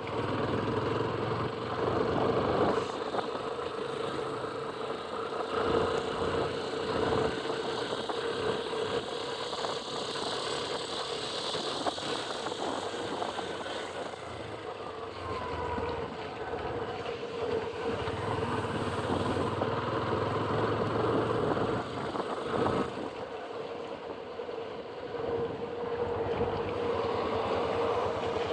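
Motorcycle running steadily at road speed, its engine hum under a constant rush of wind and road noise.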